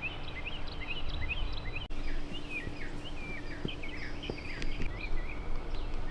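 Small birds chirping, with many short high calls overlapping several times a second, over a low rumble and a faint steady hum.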